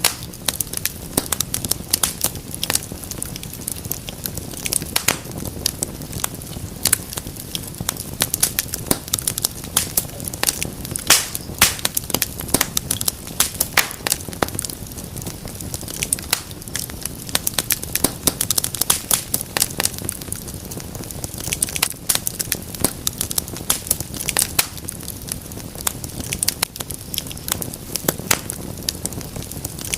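Fire in a fireplace crackling: a constant run of irregular sharp snaps and pops over a steady low rumble of the flames.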